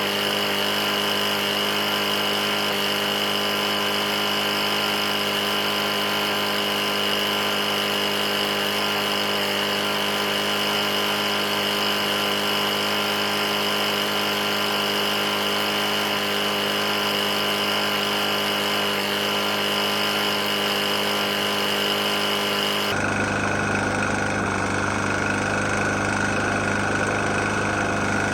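Briggs & Stratton single-cylinder mower engine running steadily at a constant speed, an engine that has a bad knock after being run with very little oil. About 23 seconds in, the tone of the sound changes abruptly.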